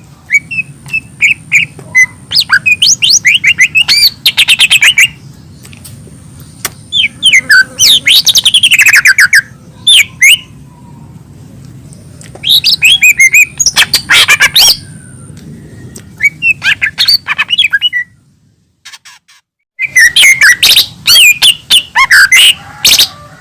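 Lesser green leafbird (cucak ijo mini) singing in repeated loud phrases of rapid chirps, trills and whistled glides, with short pauses between phrases and one brief cut-out of the sound about three-quarters of the way through.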